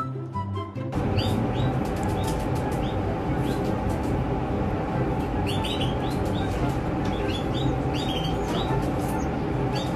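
Birds chirping, short rising chirps repeated irregularly over a steady hiss, with background music underneath.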